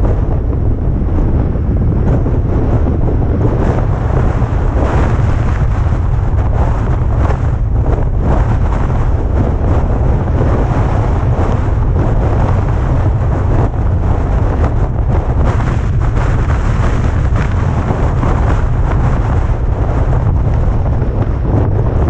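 Loud, steady wind buffeting on the microphone, with a low rumble throughout, over the noise of a car driving down a mountain road.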